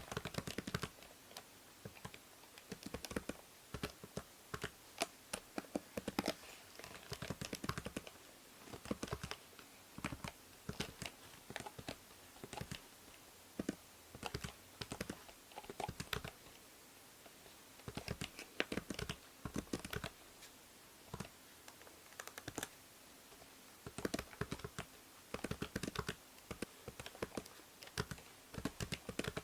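Typing on a computer keyboard: runs of key clicks coming in irregular bursts with short pauses between them, over a steady faint hiss from the binaural microphone.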